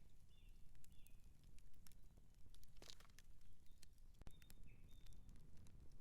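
Outdoor campfire crackling, with scattered sharp pops and a low steady rumble. A few faint, short high chirps sound about half a second in and again around four to five seconds in.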